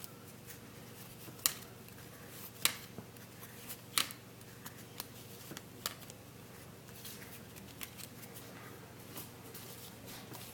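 Trading cards being handled and slid apart one at a time, with sharp card clicks, the loudest about one and a half, two and a half and four seconds in, over a faint low hum.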